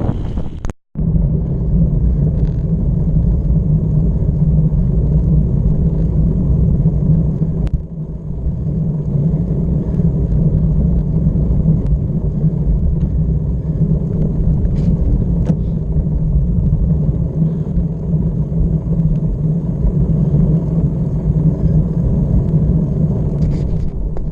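Steady, loud low drone and rumble of a moving vehicle on the road, unchanging for the whole stretch, with a brief cut to silence about a second in.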